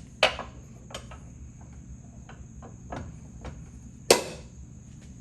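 Two sharp hammer blows on a steel ratchet, about four seconds apart, with a few lighter knocks and taps between them. The blows are an attempt to drive out a rusted, seized part of the ratchet mechanism.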